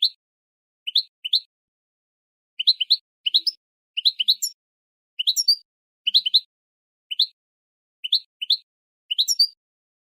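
Goldfinch × linnet hybrid giving short, rising chirps, mostly in pairs or quick runs of three or four, repeated every second or so. This is the 'tabtabit' chirping used to prompt other cage birds to sing.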